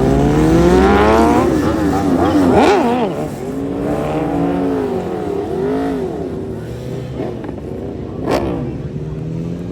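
A high-performance engine revving hard: its pitch climbs steeply, then rises and falls again and again as the throttle is blipped, loudest in the first few seconds. A single sharp crack comes about eight seconds in.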